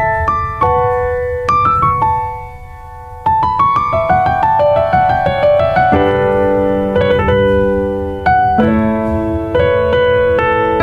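Background piano music: single notes picked out, a rising run of notes, then sustained chords.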